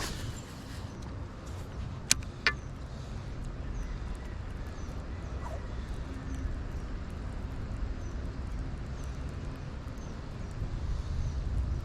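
Wind buffeting the microphone as a steady low rumble, with two sharp clicks about two seconds in.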